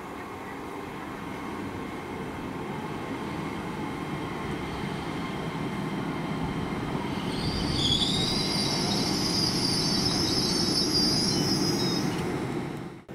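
A train running past the platform, its rumble building, with a high-pitched metallic squeal from the wheels setting in about halfway through and lasting several seconds. The sound cuts off abruptly near the end.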